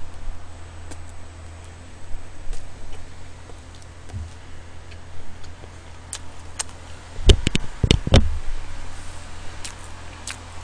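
Close-miked chewing of a seaweed-wrapped triangle kimbap, with small wet mouth clicks over a steady low electrical hum. About seven seconds in comes a quick cluster of four loud knocks near the microphone.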